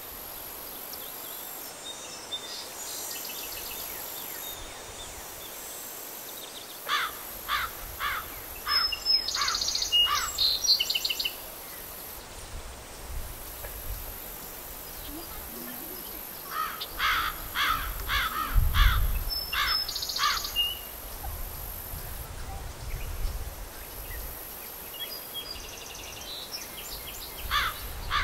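Summer meadow ambience: a songbird sings the same short song of several quick notes three times, about ten seconds apart, over a steady high insect buzz. Wind rumbles on the microphone now and then.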